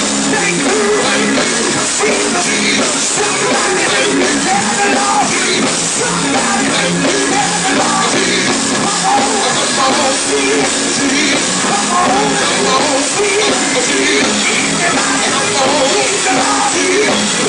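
Loud live gospel church music, with voices singing and shouting over the band.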